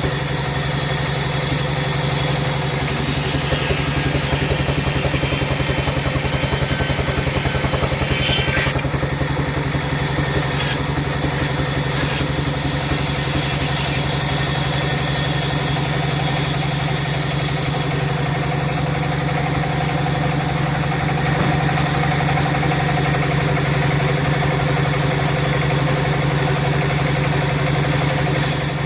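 Sawmill machinery running steadily: a constant low mechanical hum with a fast, even pulse and no pauses.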